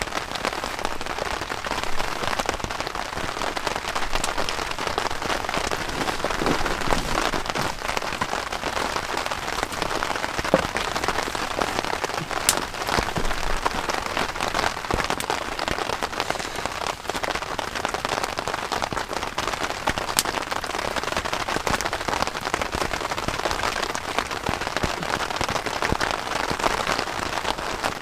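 Heavy rain falling steadily, a dense patter of drops with a couple of sharper ticks.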